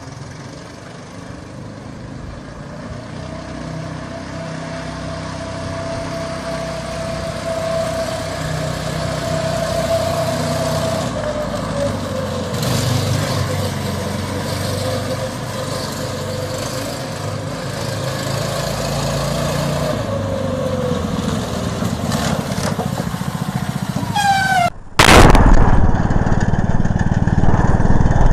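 A small engine running steadily and growing gradually louder, its pitch dipping a couple of times. Near the end it gives way abruptly to a much louder, harsher engine sound.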